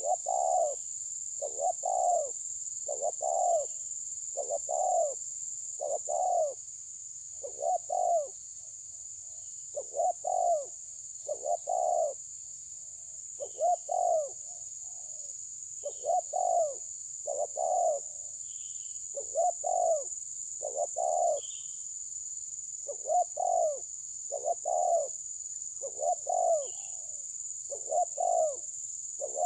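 A bird calling over and over, one short low call about every second or so, each call rising and falling in pitch. A steady high-pitched hiss runs underneath.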